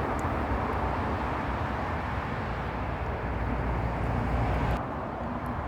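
Road traffic: a passing vehicle's engine and tyre noise rising steadily, then dropping away abruptly about five seconds in.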